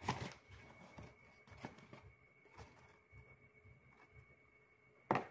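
Faint handling of kitchen items on a table: a few light knocks, the loudest at the start and near the end, over a faint steady high-pitched hum.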